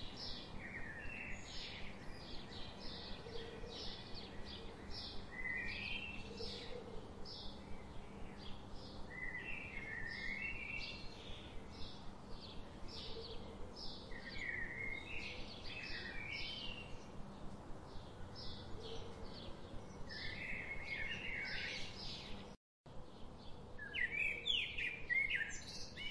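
Birdsong: short high chirps repeating about twice a second, with lower warbling phrases every few seconds. The sound cuts out for a moment about three-quarters of the way through.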